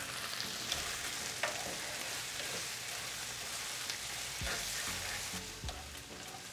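Sliced red onions and green olives sizzling in oil in a frying pan, with a wooden spatula stirring them through.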